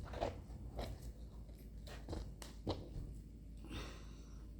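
Handling noises from a pineapple and a twist-in pineapple corer: a few scattered short knocks and clicks, and a brief scrape or crunch near the end, as the cored fruit is worked out of the tool.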